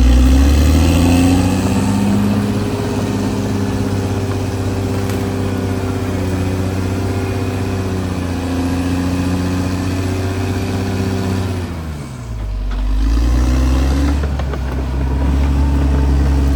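CAT D6R XL bulldozer's diesel engine running steadily, its note dropping briefly about twelve seconds in before picking back up.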